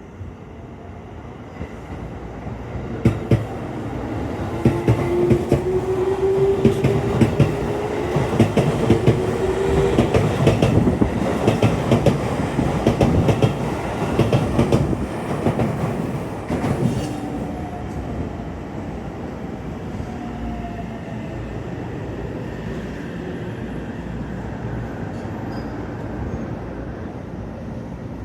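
A train running past on the rails, its wheels clattering over rail joints with a faint whine in the mix. It builds to its loudest over the first half, then eases into a quieter steady rumble.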